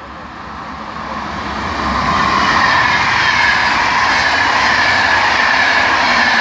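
A train approaching and passing close by, getting louder over the first two seconds and then staying loud, with wheel-on-rail noise and a high whine running through it.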